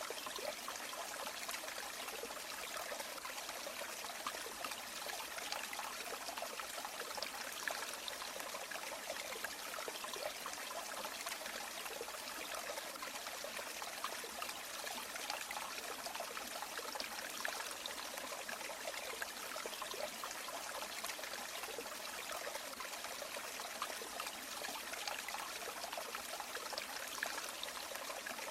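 A river or stream babbling and trickling steadily over stones, a busy, even rush of water with small splashes flickering through it.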